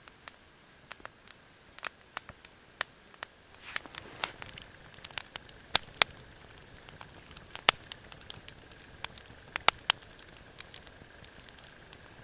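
Wood campfire crackling, with irregular sharp pops over a low hiss.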